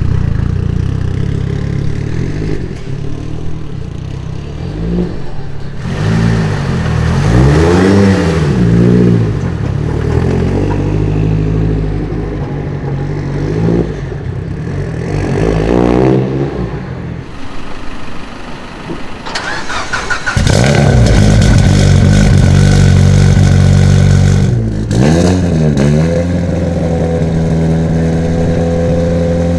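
Modified car engines idling and being revved, the pitch rising and falling in several quick revs, with a loud steady stretch of about four seconds past the middle.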